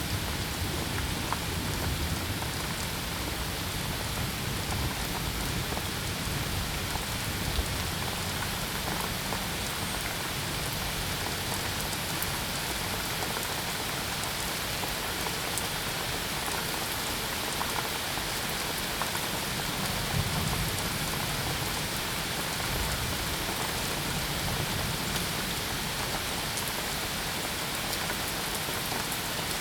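Steady heavy rain falling on surfaces, an even hiss with scattered drop ticks and a low rumble underneath.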